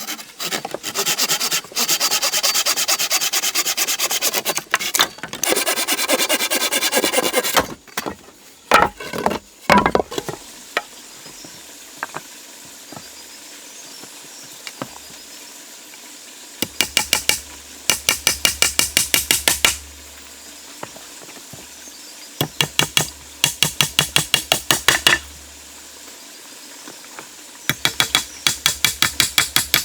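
Bouts of fast, regular scraping or rubbing strokes, several a second, each bout lasting a few seconds with pauses between.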